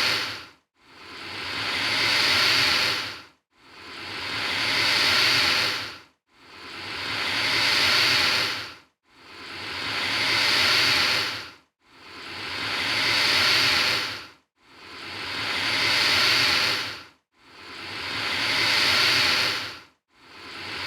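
Alligator hissing, the same hiss repeated over and over: each one swells for about two and a half seconds, cuts off abruptly, and starts again almost at once.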